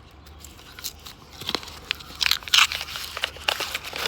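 Australian $2 coins and their paper roll wrapper being handled: a dense run of crinkling, crackling clicks, busiest in the second half.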